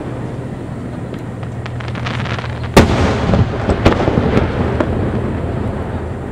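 Aerial fireworks shells bursting: scattered crackling, then a sharp loud bang a little before halfway, followed by several more bangs. A steady low hum runs underneath.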